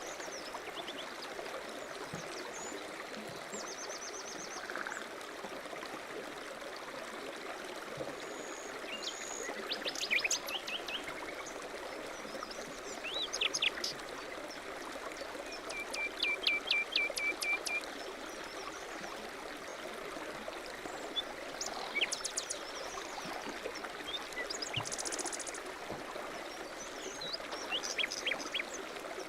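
A stream running steadily, with several birds chirping and calling over it; about midway one bird gives a quick run of evenly repeated notes.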